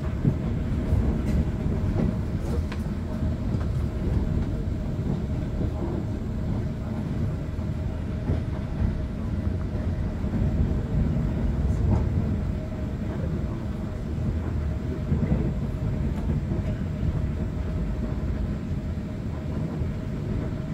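Passenger train running on the rails, heard from inside the carriage: a steady low rumble with a faint steady hum and a few light clicks from the track.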